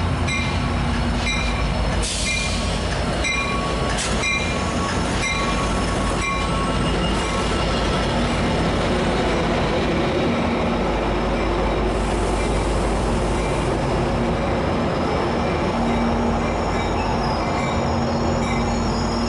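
Metrolink commuter train passing close by: a steady heavy rumble of wheels on rail. Over the first six seconds, short high wheel squeals repeat a bit under a second apart.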